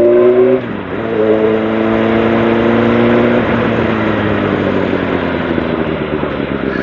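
Sportbike engine accelerating through the gears: the engine pitch climbs, drops sharply at an upshift about half a second in, climbs again, and shifts once more about three and a half seconds in. After that a steady rush of wind noise takes over as the bike gathers speed.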